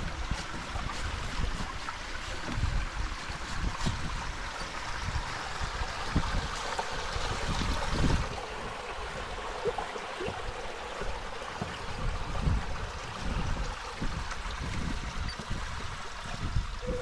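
Water lapping and trickling, with wind buffeting the microphone in irregular low gusts.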